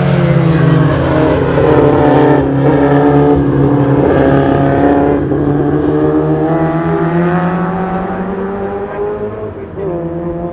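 Racing Mini's small four-cylinder engine running hard under race load. The engine note changes pitch, with short breaks about two and a half and five seconds in, and the pitch slowly falls in the second half.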